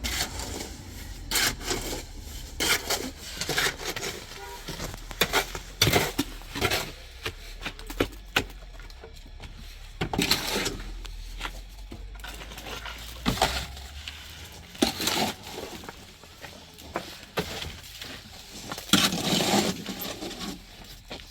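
Irregular knocks and clinks of hard objects being handled and set down, a few sharp ones with a brief ring.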